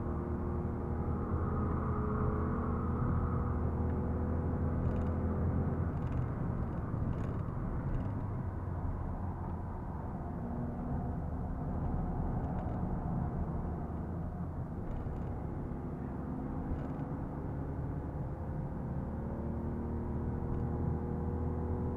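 Ford Fiesta 80 PS engine running steadily under load, heard from inside the cabin over a constant road and tyre rumble. The engine pitch slowly rises near the end.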